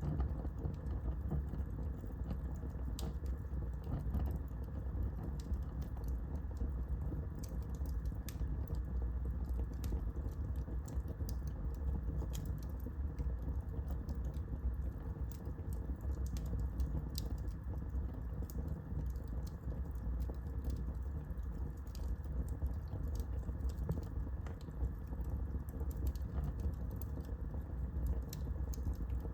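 Wood fire burning in a fireplace, with irregular sharp crackles and pops over a steady low rumble.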